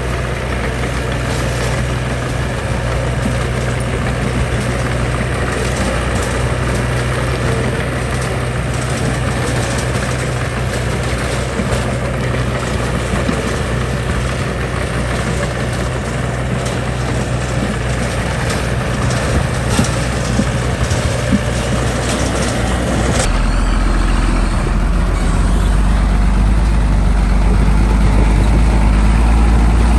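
Heavy diesel construction machinery running steadily. About 23 seconds in, the sound changes abruptly to a deeper, slightly louder engine rumble.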